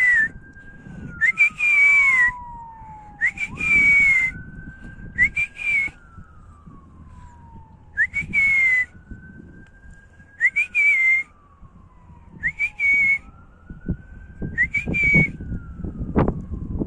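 A series of short, breathy whistled notes, one every couple of seconds, each sliding up and then holding one pitch. Under them an emergency siren slowly wails up and down, rising quickly and falling off slowly in a cycle of about four to five seconds.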